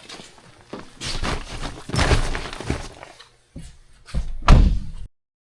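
A series of heavy thumps and knocks with noisy rushes between them, the loudest about four and a half seconds in, cutting off abruptly just before the end.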